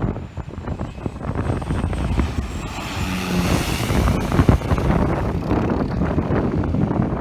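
A small aircraft passing close by, its engine noise swelling to a peak about halfway through with a faint high whine, while wind buffets the microphone.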